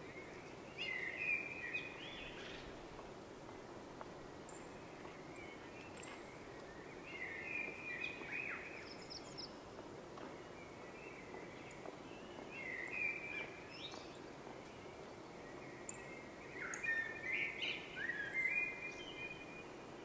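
A songbird sings short chirping phrases four times, a few seconds apart, over steady low background noise.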